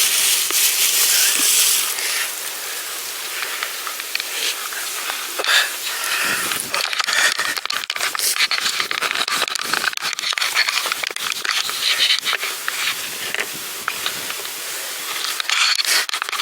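Rustling and crinkling with scattered small clicks and knocks, as of a bag or packaging being handled. There is a loud hiss for the first two seconds.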